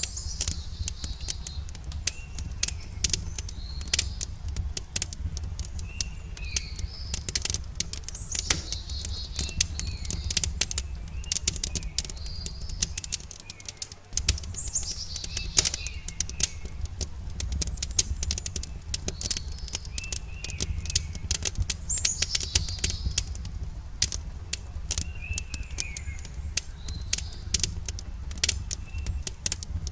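Wood fire crackling with frequent sharp pops and snaps over a steady low rumble, while songbirds chirp in repeated short, falling phrases.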